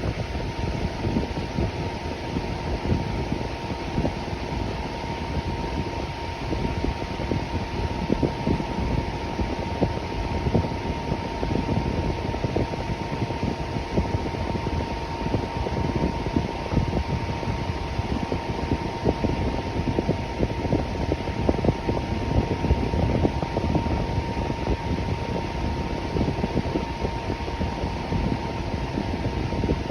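Electric fan running steadily, a whooshing rush of air with a faint steady hum just under 1 kHz.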